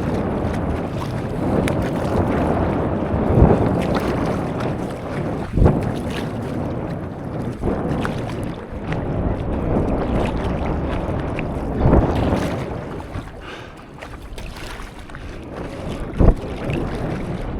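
Sea water sloshing around a stand-up paddleboard, with a sharper splash from a paddle stroke every two to four seconds, and wind on the microphone.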